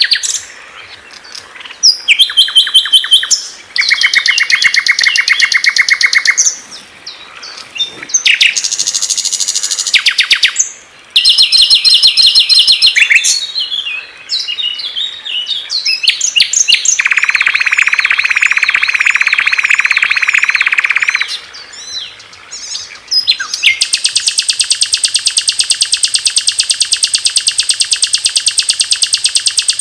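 Recorded songs of small songbirds edited one after another: loud, high, rapid trills and chirping phrases that change abruptly from one bird to the next. A long, even fast trill takes over near the end.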